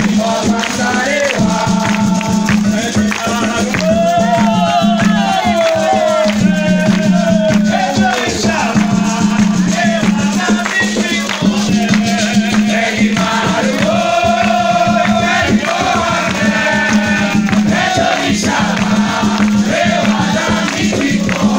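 Candomblé ritual song: voices singing a chant to Xangô over shaken rattles and percussion.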